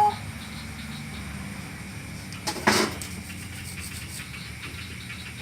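A steady low machine hum, with one short hissing burst about two and a half seconds in.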